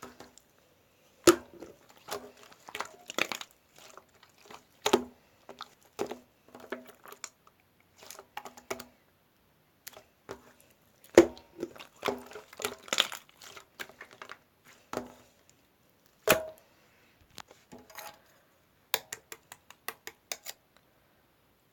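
Irregular sharp taps and clicks on hard objects, some with a short hollow ring, coming in loose clusters with pauses between them.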